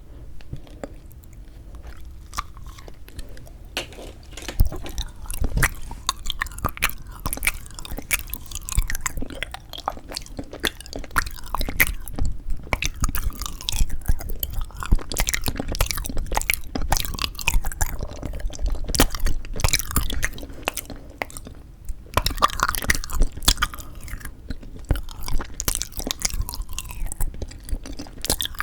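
Close-miked chewing and biting of frozen sweet red bean jelly (yanggaeng): a dense run of crunchy crackles and sticky mouth clicks. It is softer at first and grows fuller about four seconds in.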